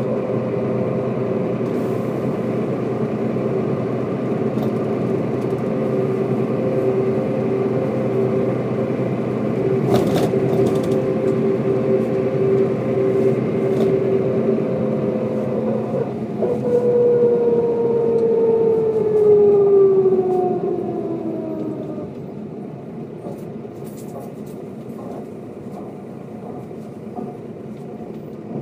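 1995 Mercedes-Benz O407 bus driving, its diesel engine and drivetrain giving a steady whine. About two-thirds of the way in the pitch shifts and the whine then falls steadily as the bus slows, and the sound settles to a lower level near the end.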